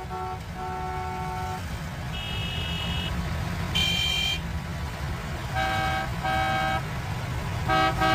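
Car horns honking in turn at several different pitches, some held for about a second and some short, with three quick honks near the end, over a steady low rumble.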